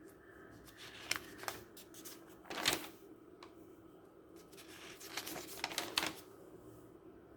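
Handling noise: a few short rustles and taps, the loudest about two and a half seconds in and a quick cluster near the end, over a steady low hum.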